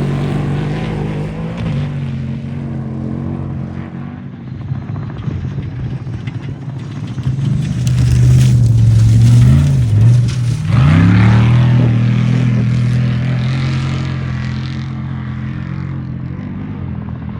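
Off-road race vehicle's engine running hard as it passes, getting louder to a peak about eight to eleven seconds in. Near the peak the pitch drops sharply and climbs back as the driver lifts off and gets back on the throttle, then the sound fades away.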